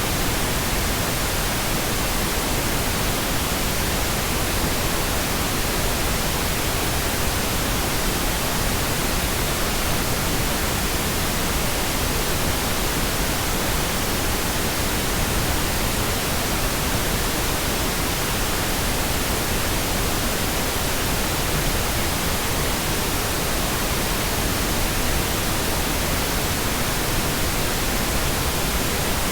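Steady synthetic pink noise: an even, unchanging hiss spread across the whole range from deep lows to highs.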